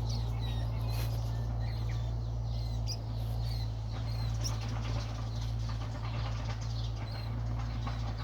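Small birds chirping, short high cheeps scattered throughout, over a steady low rumble.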